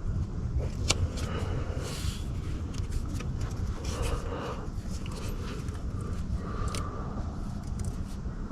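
Scattered metallic clicks, knocks and scrapes of hand tools and parts during work on the engine, over a steady low rumble, with one sharp click about a second in.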